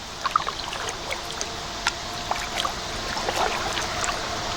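Water lapping and trickling against a kayak's hull, with scattered small drips and splashes.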